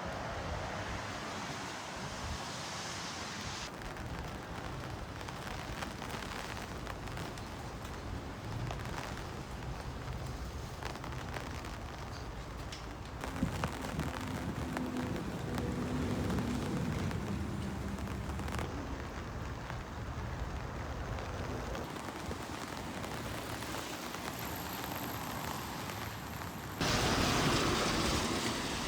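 Steady running noise of a train, with a low hum that swells about halfway and a sudden louder rush near the end.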